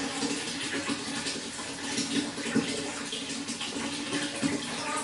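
Running water pouring and splashing steadily, a continuous spatter of small splashes.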